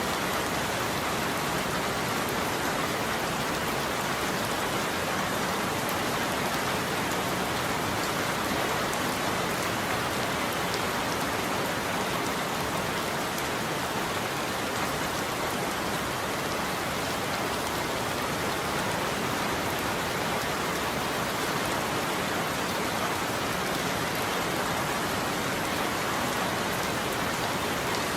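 Steady rain falling on a roof, an even hiss that holds at a constant level.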